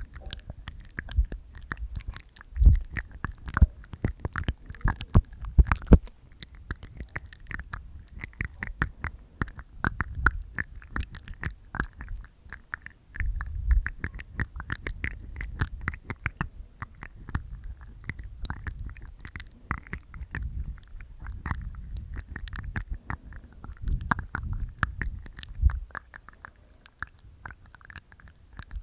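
Close-miked ASMR mouth sounds from inside the mouth: dense, rapid wet tongue clicks and teeth sounds, with a few louder low thumps in the first six seconds.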